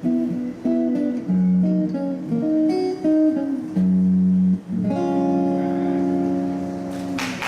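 Solo jazz guitar playing a few melodic notes, then a final chord struck about five seconds in and left ringing as the tune closes. Applause breaks out just at the end.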